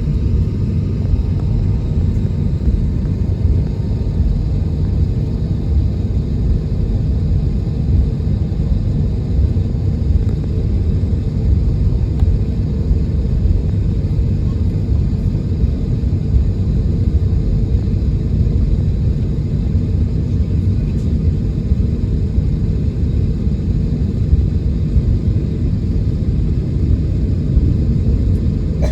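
Steady low rumble inside the cabin of an Airbus A321neo jet airliner as it taxis to the runway, its engines near idle.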